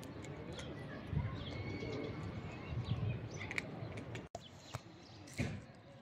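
Birds chirping and cooing over a low rumble, with a few short clicks; the sound cuts out for an instant about four seconds in.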